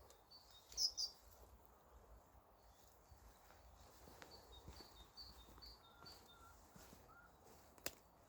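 Small birds calling: a short bright chirp about a second in, then a run of about six quick, evenly spaced high notes, over faint outdoor background. A single sharp click near the end.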